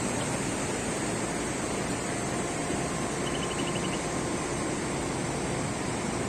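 Steady rushing noise of flowing mountain water, with a short run of faint high ticks about halfway through.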